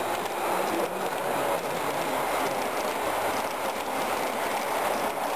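Train running along its track, a steady rolling noise of wheels on rail.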